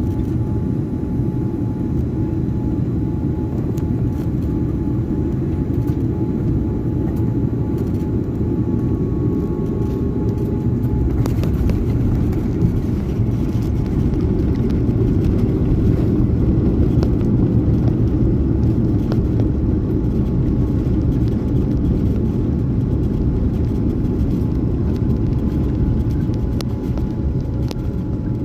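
Steady low rumble of a jet airliner during its landing, engines and airflow running evenly throughout, with faint rattles and clicks.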